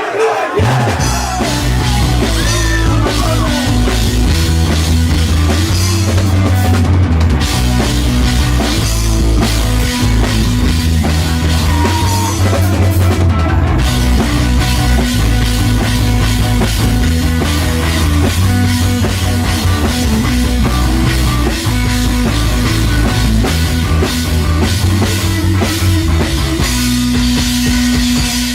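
Live rock band playing loudly, with a full drum kit, bass and guitars.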